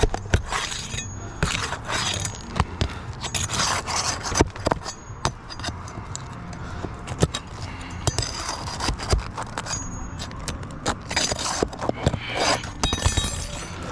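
Asphalt shingles being pried up and their nails pulled during a roof repair: repeated scraping, with many sharp clicks and knocks throughout.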